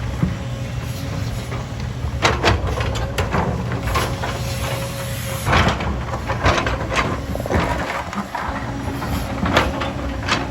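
Heavy earthmoving machine's diesel engine running steadily, with a string of sharp knocks and clanks, loudest about halfway through and again near the end.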